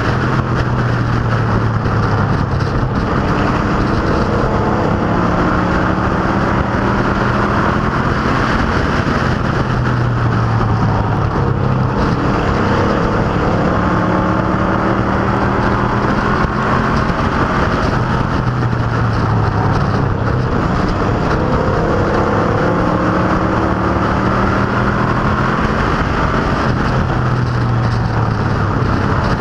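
A field of stock cars and pro trucks circling a short oval, their V8 engines running hard, the pitch repeatedly rising and falling as they accelerate down the straights and lift for the turns.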